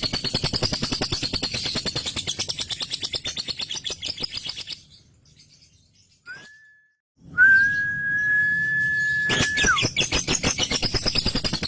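Male lovebird's ngekek song: a long, rapid, buzzing chatter that breaks off about five seconds in. After a short gap comes a brief whistle, then a long steady high whistle for about two seconds, and the rapid chatter starts again near the end.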